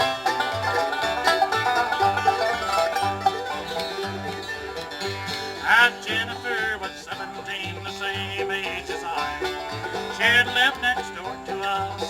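Live bluegrass band playing an instrumental passage: banjo to the fore over guitar and mandolin, with a bass fiddle plucking a steady run of low notes. Two brief loud high sliding notes stand out, about six seconds in and again near ten seconds.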